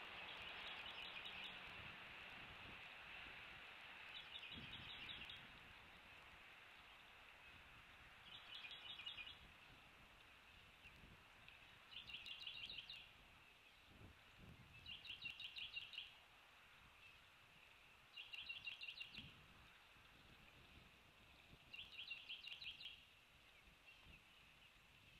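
Faint bird call: a short pulsed trill about a second long, repeated seven times roughly every three and a half seconds, over a steady high hiss.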